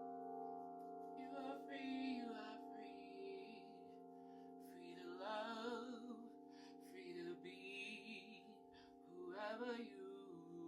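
Several singing bowls ringing together in sustained, steady tones. A woman's voice sings softly over them in three short wavering phrases.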